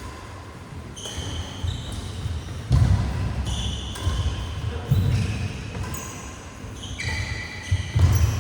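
Badminton players' court shoes squeaking sharply on the hall floor during a rally, with heavy footfalls thudding about three times.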